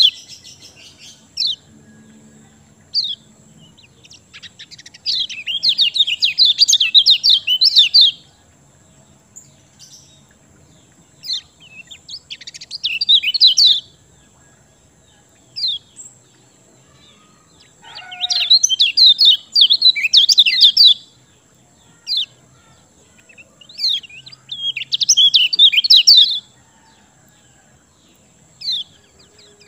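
Kecial kuning songbird singing: rapid, chattering high-pitched phrases of two to three seconds, repeated about every six seconds, with single short chirps in between.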